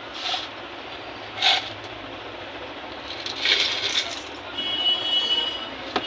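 Short scraping and clattering bursts from hand tools working on a harmonium's key mechanism, over a steady hiss, with a high-pitched squeal lasting about a second near the end.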